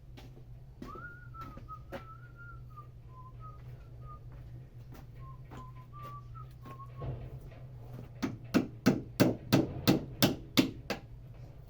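A person whistling a slow, wandering tune, then about nine sharp knocks in quick succession, about three a second, which are the loudest part. A low steady hum runs underneath.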